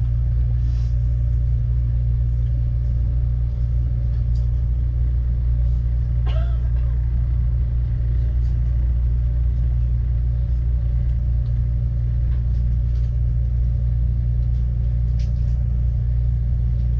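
Steady low hum and rumble of a stationary Amtrak Cascades passenger train, its locomotive and onboard power and air systems running while it stands still, heard inside the coach. About six seconds in there is a brief thin squeal.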